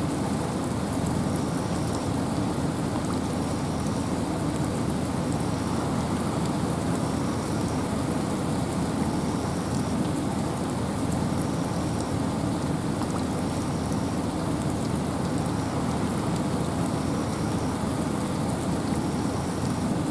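Steady rain falling in a forest with wind, an even rushing hiss that is heaviest in the low range.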